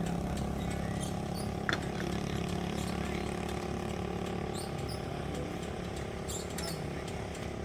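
An engine running steadily, slowly growing quieter.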